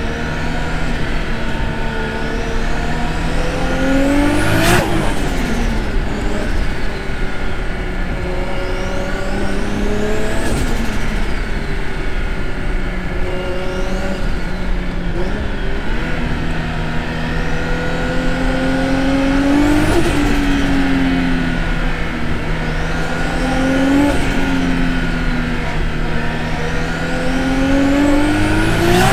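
Turbocharged RB25DET NEO straight-six in a Nissan Laurel C33 pulling up through the revs under load, then dropping back sharply with a short burst of noise about five times as the driver lifts and shifts. Heard from a camera on the outside of the car.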